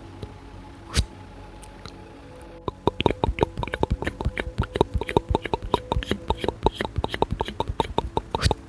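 Layered ASMR mouth sounds: a single sharp wet click, then from about three seconds in a dense, rapid run of overlapping wet clicks and pops over faint steady background tones.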